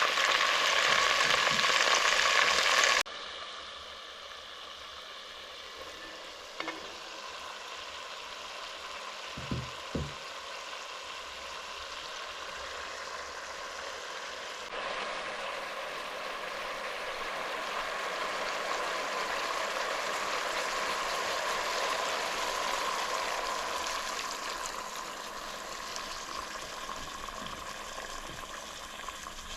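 Food frying in hot oil in a pot, a steady sizzle, with a few soft knocks of a utensil about a third of the way in. The sizzle drops sharply in level early on and swells again about halfway, where the footage is cut.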